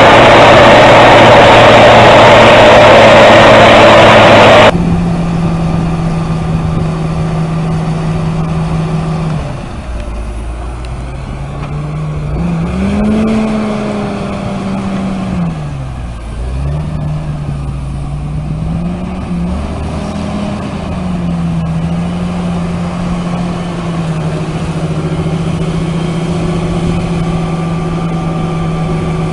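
A loud rushing noise that cuts off abruptly after a few seconds, then a vehicle engine running. Midway its pitch rises and falls several times as it is revved, then it settles back to a steady run.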